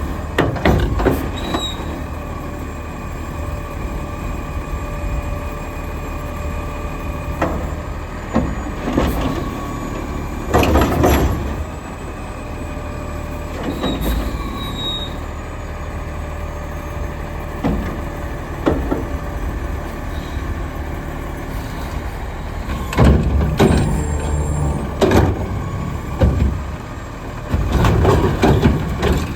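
Diesel Autocar garbage truck with a McNeilus front loader and Curotto Can running steadily, broken several times by loud clanks and air hisses as it works its route.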